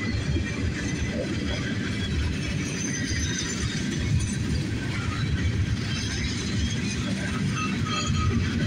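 Freight train cars rolling past on jointed rail: a steady low rumble of steel wheels on the track, with short high squeals scattered through it.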